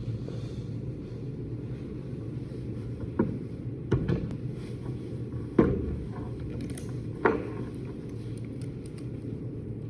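A steady low hum with four sharp knocks, spaced about a second or two apart.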